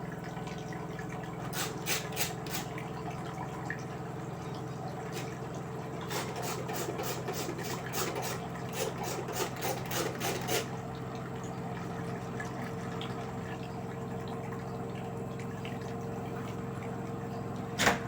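LG direct-drive front-loading washing machine running a Cotton 60°C wash, with water moving in the drum over a steady hum. Runs of quick clicks and knocks come early on and again from about six to ten seconds in.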